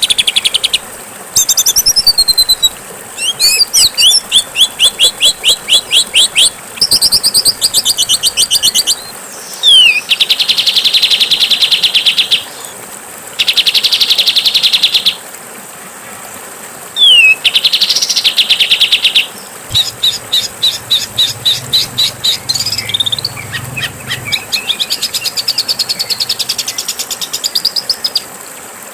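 Songbird song: phrases of fast, harsh trills and buzzy rattles, broken by short sharp whistled notes, each phrase lasting one to three seconds with brief gaps between them, over a steady hiss.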